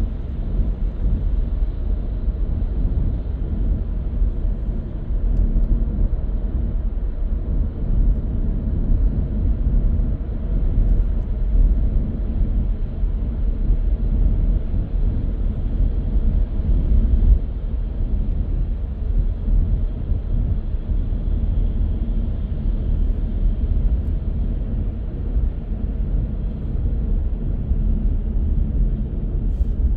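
Car driving at a steady speed: an even, low road rumble of tyres and engine that holds without change.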